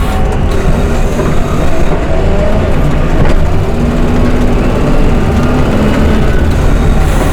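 Snow-removal vehicle's engine running steadily, a loud low rumble with faint shifting engine tones above it.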